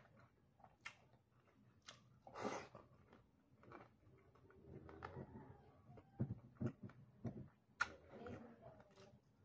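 Faint chewing of fried chicken, with scattered short clicks and crunches from the mouth and a longer crunchy burst a couple of seconds in.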